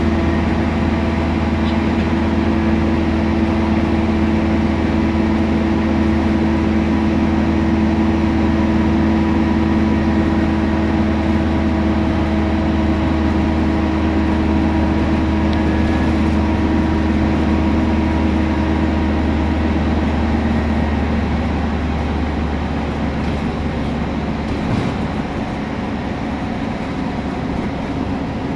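Temsa Prestij SX midibus running on the road: a steady engine drone with steady whining drivetrain tones over it, which shift and ease off a little about two-thirds of the way through.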